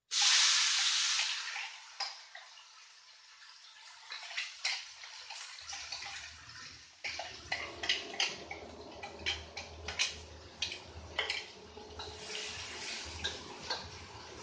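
Blended chili spice paste hitting hot oil in a wok: a loud sizzle that fades over about two seconds, then steady frying with scattered sharp pops and crackles as the paste is stir-fried.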